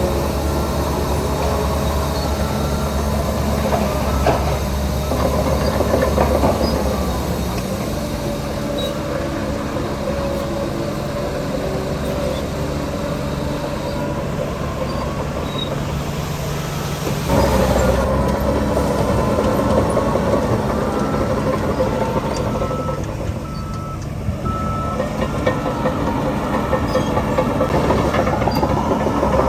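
Heavy diesel engine of earthmoving machinery working under changing load: it eases off about 8 seconds in, picks up sharply about 17 seconds in, and eases again a few seconds before the end, with a thin higher whine over it.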